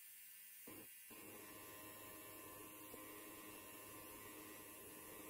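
Electric hair clipper running quietly with a steady buzzing hum. A denser cutting noise comes in under a second in, breaks off briefly, then carries on.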